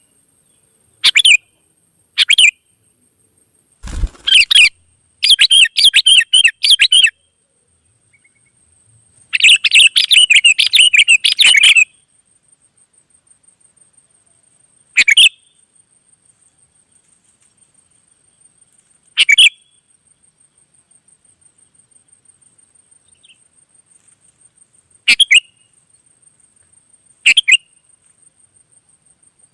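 Sooty-headed bulbul calling: a few short notes, then two bursts of rapid chattering phrases a few seconds in, then single short calls every few seconds. A faint steady high whine runs underneath.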